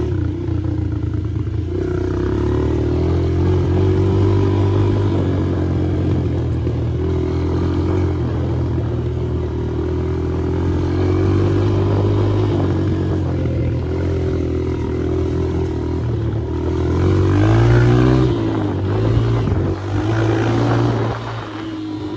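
Dirt bike engine running under way, its pitch rising and falling with the throttle, with one rev-up to its loudest about three-quarters of the way through before easing off.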